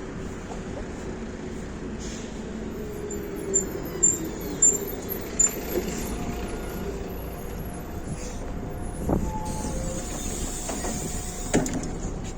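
MAZ-105 articulated city bus running, heard from on board as a steady engine and road noise. A few sharp knocks or rattles come in the middle, and one more near the end.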